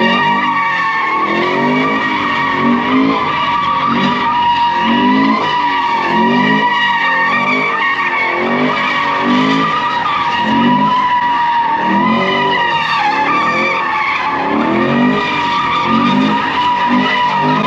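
Car tires squealing in one long, steady squeal as the car drifts, while its engine revs rise and fall about once a second.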